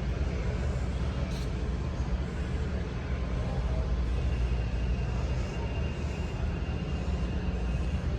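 Steady low rumble of vehicles at a truck stop, with a thin high whine from about four seconds in until near the end.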